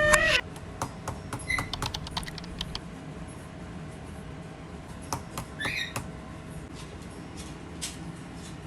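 Pet parrots left alone: scattered light clicks and taps, with a short squawk about one and a half seconds in and another near six seconds.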